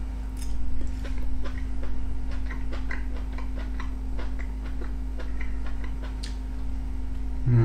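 A person chewing a mouthful of fried porcini mushrooms and bread close to the microphone: irregular small mouth clicks and smacks, a few a second, over a steady low electrical hum.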